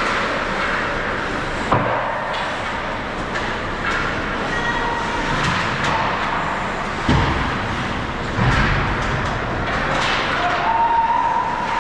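Ice hockey game ambience in a rink: a steady wash of skating and crowd noise, broken by a few sharp thuds of the puck or players against the boards, about two seconds in and again around seven and eight and a half seconds in.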